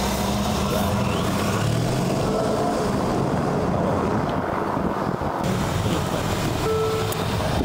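Mercedes GL 500 4Matic's 4.7-litre twin-turbo V8 accelerating, the engine note rising in pitch about two seconds in, then running on under load with a rushing noise.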